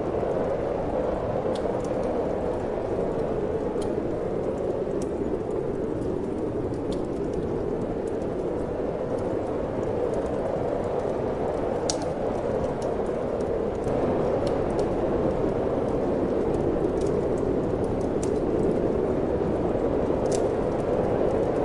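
Steady wind with a wood fire crackling in a fireplace: scattered sharp pops and snaps over a constant low wind noise.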